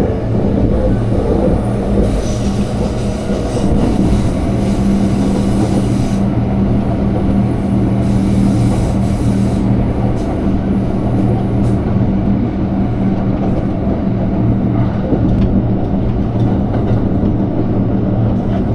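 Train running along the track: a steady rumble of wheels on rails under a low, even hum, with a hiss that comes and goes during the first half.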